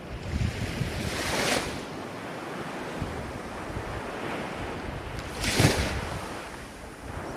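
Ocean waves washing ashore in a steady hiss, with two louder breakers about four seconds apart.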